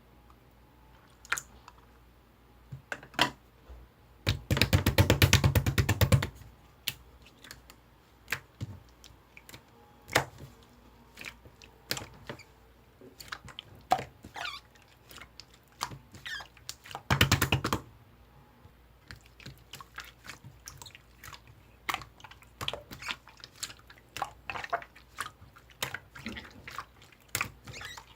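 Clear slime being squished and pressed by hand, making sticky clicks and small pops, with two runs of rapid crackling clicks lasting a second or two each, the first about four seconds in and the second about seventeen seconds in.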